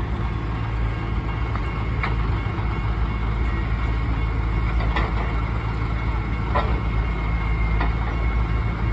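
Heavy diesel equipment running steadily with a low engine drone, with a few faint knocks.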